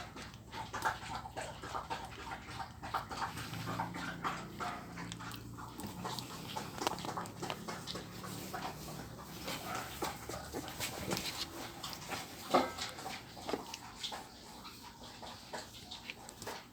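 A litter of two-week-old puppies squeaking and whimpering, with many short calls through the whole stretch.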